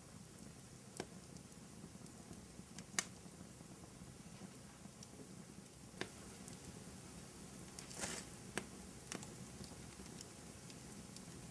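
Wood fire in a fireplace crackling softly over a low steady hiss, with sharp pops scattered through it; the loudest pop comes about three seconds in, and a brief cluster of crackles follows later.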